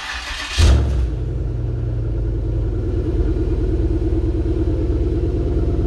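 Cold start of a 2008 Buick LaCrosse Super's 5.3 L LS4 V8 with its muffler deleted. The starter cranks for about half a second, the engine catches with a loud flare, then settles into a steady fast idle.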